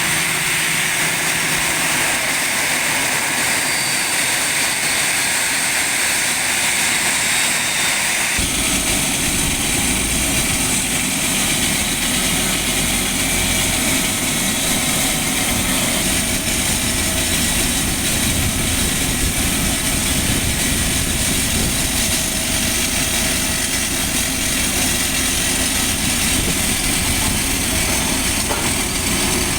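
Engines of a Citilink airliner running steadily on the ground after landing, a loud whine and hiss. About eight seconds in, a deep rumble sets in abruptly and continues under it.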